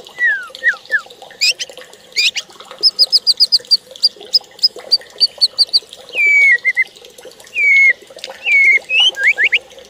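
Birds calling, several kinds of notes mixed together. There are runs of quick, high repeated chirps and lower slurred whistles, some falling and some rising.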